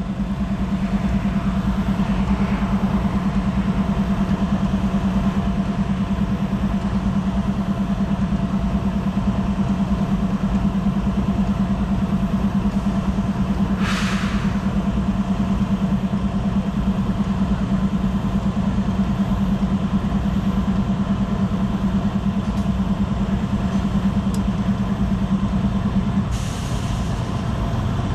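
BNSF freight diesel locomotives running steadily with a deep, even engine drone. A short hiss of air is heard about halfway through. Near the end the engine tone drops and a steady hiss comes in.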